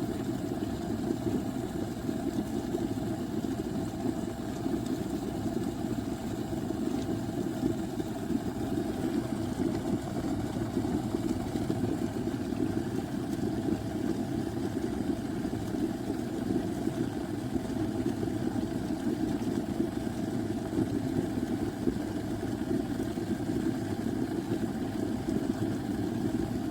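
Glass electric kettle heating water: a steady low rumble that holds unchanged throughout.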